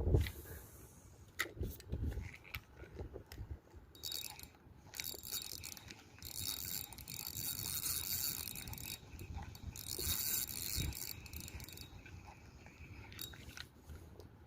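Fishing reel being cranked in spells, a high mechanical whir, with scattered clicks in the first few seconds. The line is being reeled in on a small snapper.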